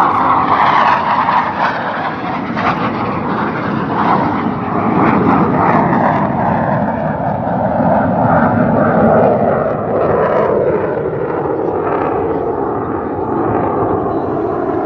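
Loud jet roar from the U.S. Navy Blue Angels' F/A-18 Hornet jets flying past, its pitch sliding down in the second half.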